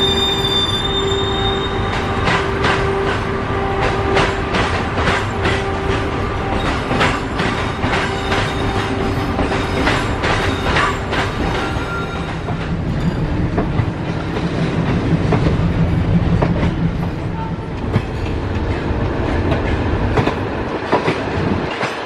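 Passenger train coaches rolling past at close range, their wheels clattering over the rail joints with a steady whine over it for the first half. About halfway through, the whine fades and a deeper rumble takes over.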